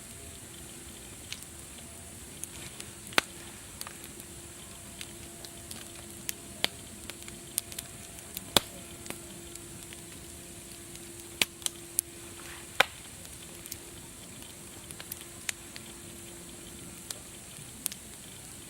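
Wood fire crackling: irregular sharp pops and snaps, about one or two a second, over a steady hiss.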